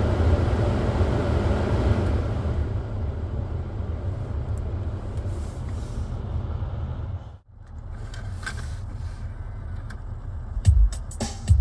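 Lexus GS300's engine running with a steady low rumble, briefly cut off about seven seconds in. Heavy drum beats of music come in near the end.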